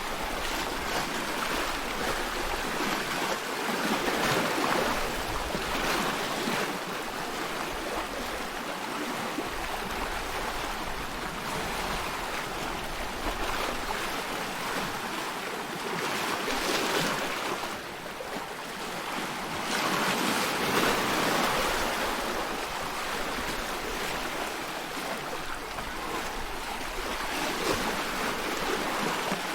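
Sea waves washing in a steady rushing hiss of water that swells and ebbs every few seconds.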